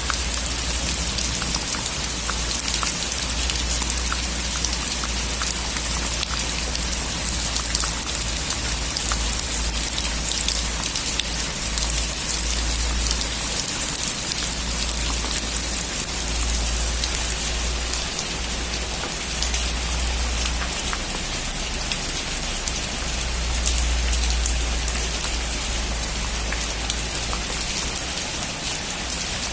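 Steady heavy rain drumming on a metal roof, with dense fine drop ticks and a constant low rumble underneath.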